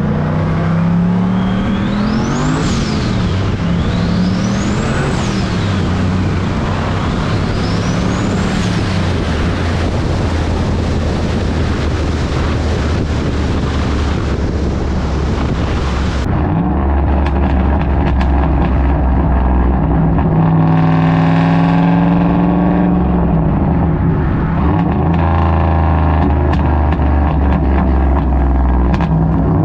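Turbocharged Ford 4.6 four-valve V8 in a New Edge Mustang being driven hard. Three times in the first few seconds the revs climb and fall, with a high turbo whine sweeping up and back down each time. About halfway through the sound cuts to the engine pulling at steadier revs, rising and falling in pitch.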